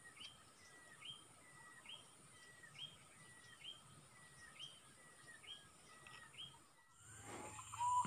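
A bird calling faintly and regularly, about once a second, eight times: each call a short level whistle that sweeps sharply up at its end. A steady high-pitched hum runs underneath, and the calling cuts off abruptly near the end.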